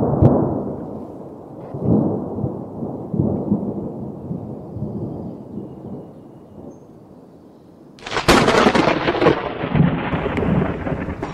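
Thunder rumbling and rolling in several swelling peals that slowly die away. About eight seconds in, a sudden, louder and sharper crash of thunder with a hissing, crackling wash.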